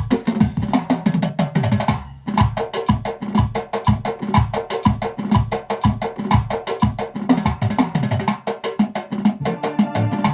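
Korg Pa600 arranger keyboard playing an Armenian-style accompaniment: a busy, even drum and percussion groove, with a short break about two seconds in.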